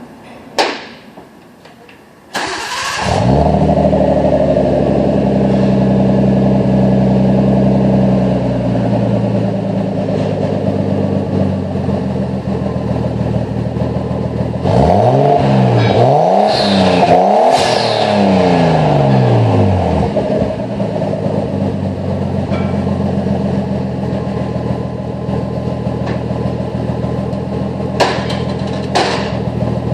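Nissan RB20DET turbocharged 2.0-litre inline-six is cranked and catches about two and a half seconds in, then idles. Around the middle it is revved up and down several times before settling back to idle. The exhaust note comes through a catalytic converter and resonator taken from a Silverado. There is a sharp click near the start and two more near the end.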